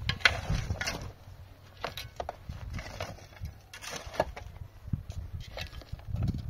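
Irregular knocks and clatter of hard objects being handled, some close together and some a second or so apart.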